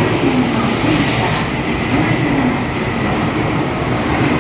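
N700S Shinkansen train pulling out of the station, a loud, steady running noise of its cars and wheels on the rails.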